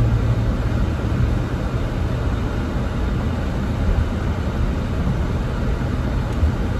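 Steady low rumble inside a car's cabin: engine and road noise, with the air conditioning running at full.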